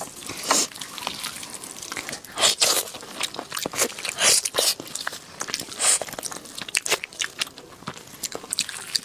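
Close-up eating sounds: a person biting into and chewing pork hock, in a string of short, noisy mouth sounds and clicks.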